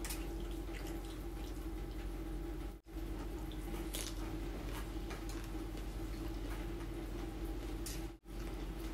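A person chewing a mouthful of rice and roasted chicken eaten by hand, giving faint clicking mouth sounds over a steady low hum. The sound drops out for a moment twice.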